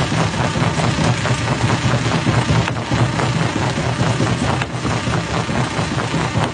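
Jaw-type stone crusher running, a steady low machine drone with a fast, even rattling pulse as rock is broken.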